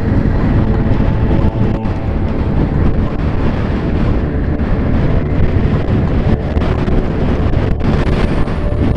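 Heavy wind buffeting on a riding motorcycle's microphone, with the motorcycle's engine running steadily underneath.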